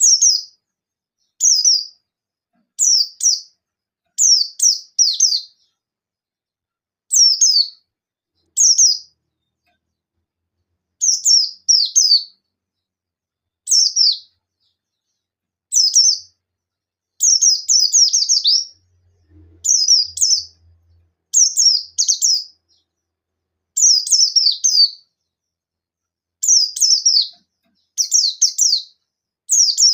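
Pleci buxtoni white-eye calling in short, high bursts of two or three quick falling notes, repeated every second or two with silence between: the sharp 'nembak' calls of a bird challenging a rival.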